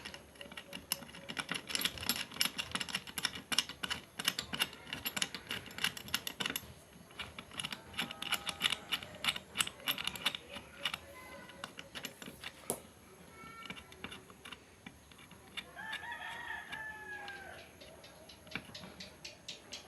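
Rapid clicking and rattling of small metal parts as a bolt and the mini chainsaw attachment are handled and fitted to an angle grinder, busiest in the first half. A rooster crows once in the background about three-quarters of the way through.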